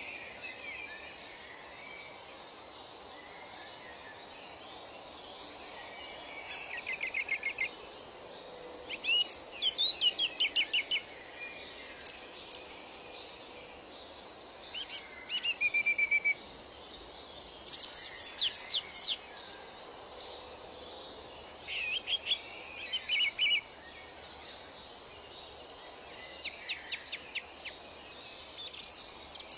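Birds singing: short phrases of rapid chirps and trills, a new phrase every couple of seconds, over a steady background hiss.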